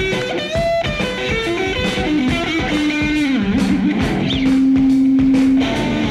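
Electric guitar solo in a live hard-rock band recording: fast runs and bent notes, a descending run, then one long sustained note near the end.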